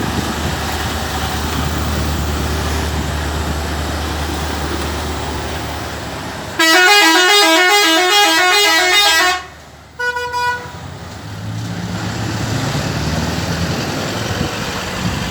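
A lorry's low engine rumble, broken after about six and a half seconds by a loud musical air horn playing a quick tune of alternating notes for about three seconds. A short single-note toot follows, then the engine rumble comes back.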